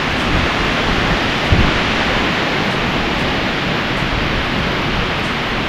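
Gale-force mountain wind, gusting at 50 to 60 mph, rushing through the forest and buffeting the microphone: a loud, steady rush with a low rumble underneath.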